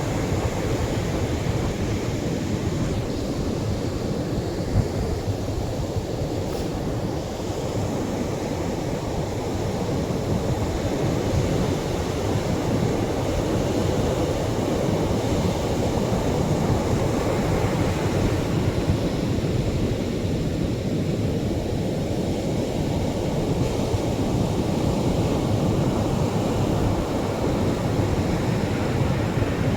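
Atlantic surf breaking on a sandy shore: a steady, low rushing wash of waves that rises and falls slightly in level.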